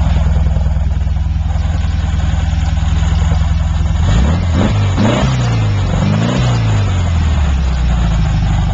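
Freshly built 1914 cc air-cooled VW flat-four idling steadily, blipped up in a couple of quick revs about halfway through, then dropping back to idle. The engine was rebuilt after leaks and a bad crankshaft end-play problem.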